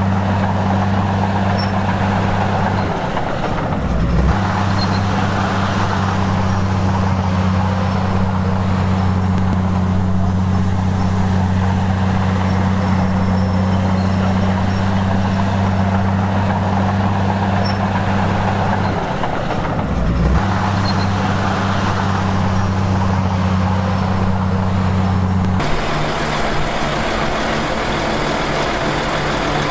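Heavy diesel engine of earthmoving equipment running steadily, dipping briefly in pitch twice before recovering. Near the end its tone changes to a different steady note.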